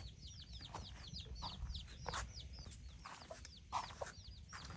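Birds chirping: rapid, short, high chirps, several a second, each falling in pitch, with a few faint clicks and knocks among them.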